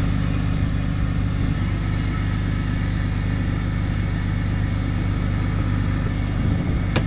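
Diesel truck engine idling steadily, with a sharp click right at the end.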